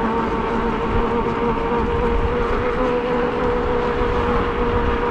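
E-bike electric motor whining with a steady pitch while riding, over a low rumble of wind and road noise.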